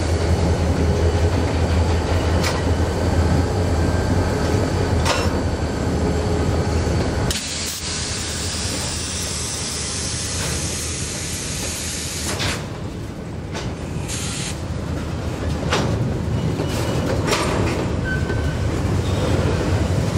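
Slow-moving diesel freight train: a steady low locomotive engine rumble with the wheels clicking sharply every couple of seconds. About seven seconds in the rumble drops back and a steady hiss of air runs for several seconds before the clicks return.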